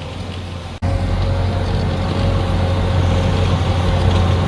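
MTZ tractor's diesel engine running steadily under load while hauling a heavy hay wagon. The sound drops out for an instant about a second in and then comes back louder.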